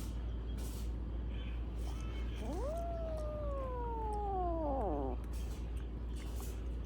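A cat giving one long, drawn-out meow that rises quickly at the start, then slides slowly down in pitch until it ends, about five seconds in.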